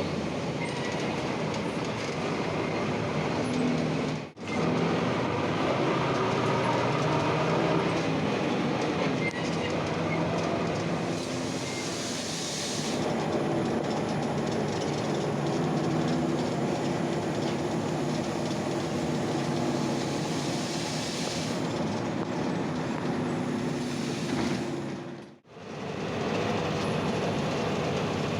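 Ikarus-260 city bus driving, heard from inside the cabin: the diesel engine runs under a steady road noise, its note shifting up and down several times as the bus changes speed. The sound cuts out for a split second twice, about four seconds in and near the end.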